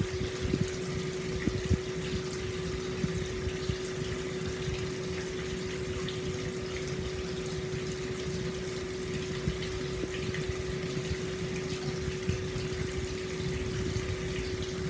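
Hot spring water pouring steadily into an open-air stone bath, an even splashing rush with small irregular splashes, over a steady hum.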